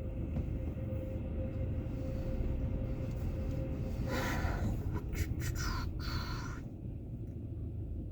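Low steady rumble of a car's engine heard from inside the cabin, with a faint steady hum in the first half and a few brief hissing sounds about four to six and a half seconds in.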